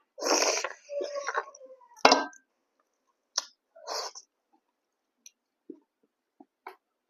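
Close-miked eating sounds: a long, noisy, loud mouth sound over the first two seconds, like slurping, then a sharp smack about two seconds in. After that come scattered soft wet clicks and smacks of chewing.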